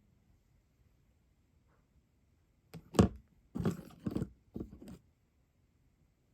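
A quick run of four or five soft knocks with some rustling about three seconds in, lasting about two seconds, after a near-silent stretch.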